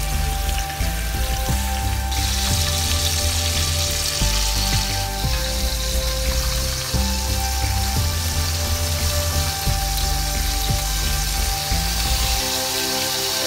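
Marinated whole chicken sizzling in hot oil in a cast-iron skillet, the sizzle getting louder about two seconds in. Background music with a steady bass line plays under it.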